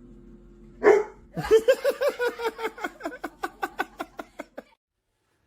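A person laughing hard: one short burst, then a long run of quick falling "ha" pulses, about six a second, that fade and cut off abruptly.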